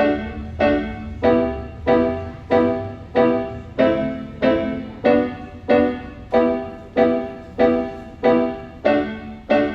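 Piano playing an instrumental intro: a chord struck over and over at an even pulse, about three every two seconds, each left to ring and fade before the next.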